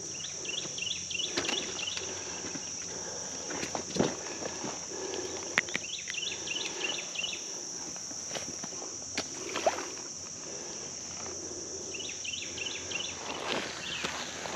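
Steady high-pitched drone of crickets and other insects, with three short bursts of higher chirping. Under it are the soft, irregular steps of someone wading in a shallow creek, with a few sharp clicks.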